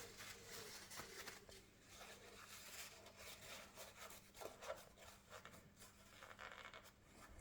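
Faint rustling and rubbing of kitchen roll being pushed into a lawnmower carburettor's air intake, with a few light ticks.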